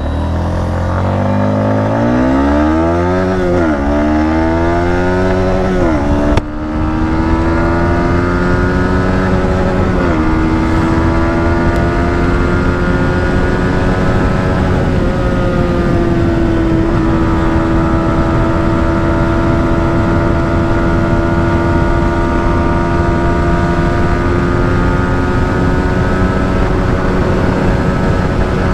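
Yamaha MT-15's 155 cc single-cylinder engine under hard acceleration, its pitch climbing and dropping back at each upshift about 3, 6 and 10 seconds in. It then settles into a nearly steady high pitch in top gear, held at sustained high speed.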